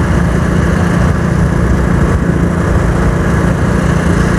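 Hero Splendor motorcycle's single-cylinder four-stroke engine running steadily while being ridden on the road.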